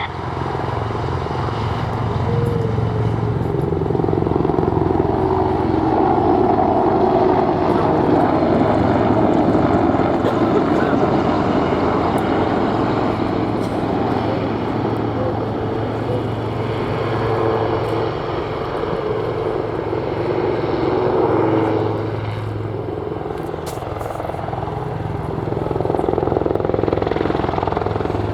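Military attack and utility helicopters running steadily in flight: a continuous rotor and turbine sound with a steady low drone. It grows louder for a few seconds, eases off about two-thirds of the way through, then builds again near the end.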